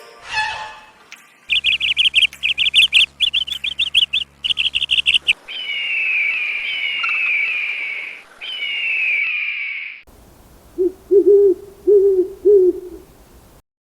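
Bird calls in three abrupt sections: a rapid chattering run of high chirps, then three long whistles that each slide downward in pitch, then four low hoots.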